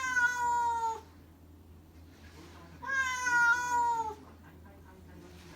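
Domestic cat meowing twice, two long drawn-out meows each sliding slightly down in pitch, about three seconds apart: a cat asking to be let through a closed door.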